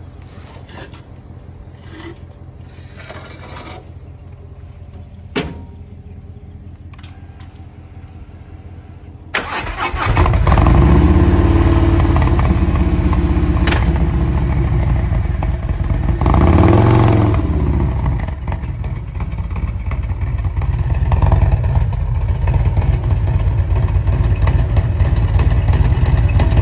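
Harley-Davidson motorcycle engine running. It is fairly quiet at first, then suddenly much louder about nine seconds in, with one short rev about seven seconds later before it settles back to a steady run.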